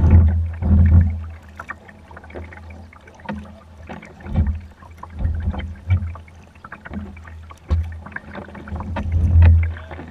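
Kayak paddling through floodwater: paddle strokes splashing and knocking against the water and hull at an irregular pace, about one every second or so.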